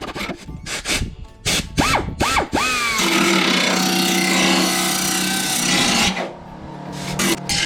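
Metalworking on car-body sheet steel: short scraping and rasping strokes, then a power tool runs steadily for about three seconds and stops, followed by more short strokes.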